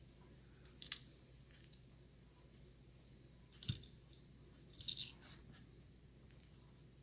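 Faint handling of carded die-cast toy cars in plastic blister packs: a few short plastic clicks and crinkles, about a second in, just before four seconds with a soft knock, and a small cluster around five seconds.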